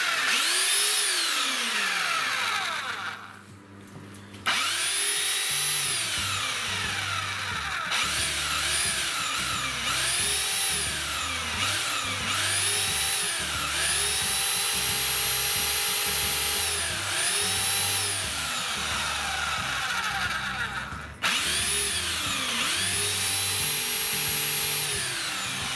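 Rotary hammer drill with a 4 mm bit drilling holes into brick at reduced speed. Its motor speeds up and slows down over and over as the trigger is squeezed and eased, pausing twice.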